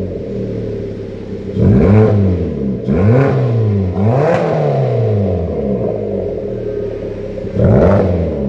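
Hyundai YF Sonata with an aftermarket variable exhaust, idling and blipped four times, each rev rising in pitch and dropping back to idle.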